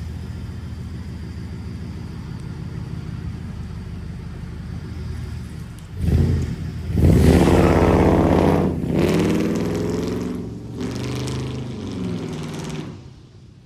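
Rebuilt car engine running steadily, then speeding up and dropping back in several surges from about six seconds in, the pitch rising and falling with each. It is being checked for misfire after a repair. The sound falls away near the end.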